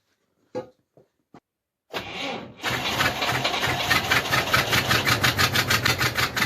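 A few light clicks, then a UAZ engine being cranked over by its starter motor with an even, slow chug of about five compression beats a second. This is cold cranking at −19°C after months of standing: thick oil holds the crankshaft speed down.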